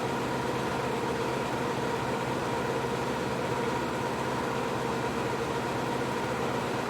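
Bambu P1S 3D printer running, a steady fan whir with a few constant hum tones.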